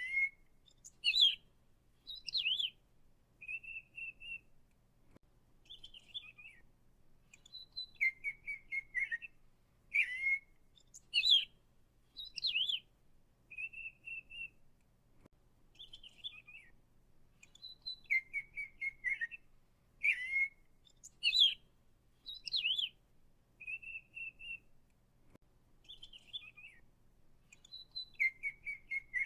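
Songbird calling: short chirps and whistled phrases, some rising or falling, with the same run of phrases repeating about every ten seconds.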